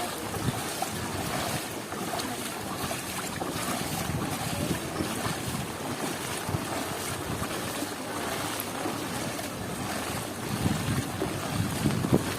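Heavy cyclone rain falling steadily, with wind buffeting the microphone; the low wind rumble grows stronger near the end.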